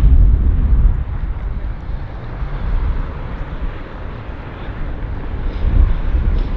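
Strong wind buffeting the microphone: a low, gusting rumble, heaviest in the first second and again near the end.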